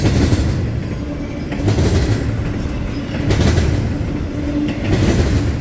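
Freight train cars rolling past close by: a steady low rumble of wheels on rail, swelling about every second and a half as each car's wheels click over the rail joints.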